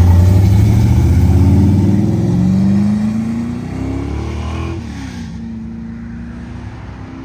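A car's engine accelerating hard, its pitch rising for about three seconds, then dropping about four and a half seconds in. It fades steadily as the car pulls away.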